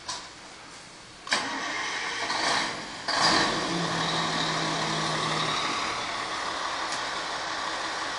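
Fire engine starting up: its engine turns over and catches about a second in, surges once more near three seconds, then settles into steady running.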